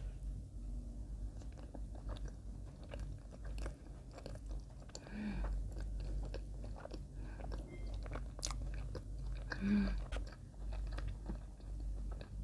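Close-miked chewing of a mouthful of soft white bread spread with Lotus Biscoff speculoos spread: a bite, then steady wet, sticky mouth clicks and smacks. Two short hums come about five and ten seconds in.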